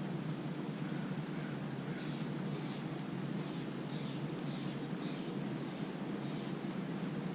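Steady hiss of rain, with a bird's short, falling chirps repeated about twice a second from about two seconds in until near the end.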